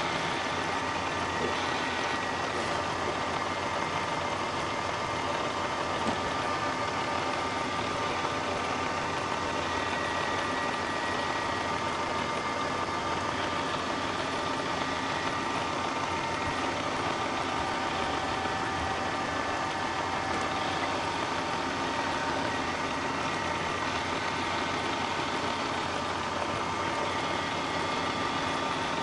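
Milling machine running steadily, most likely facing an aluminum bar: a constant machine hum with several steady whining tones and no change in pace.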